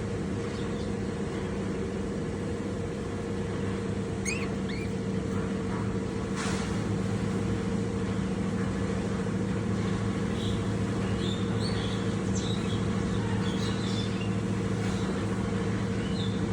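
Short, high chirps from lovebirds, scattered and more frequent in the second half, over a steady low mechanical hum.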